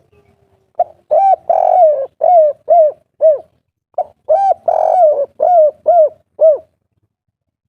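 Spotted dove singing its 'kuk 3' coo twice. Each phrase is a run of low hooting coos with a longer drawn note in the middle and three short coos at the end, the second phrase following about half a second after the first.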